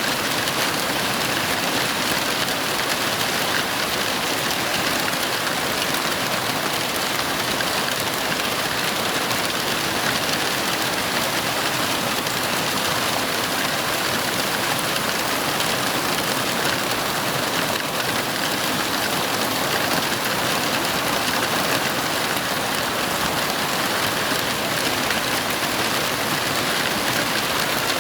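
Heavy rain falling steadily, an even wash of rain noise with no thunder heard.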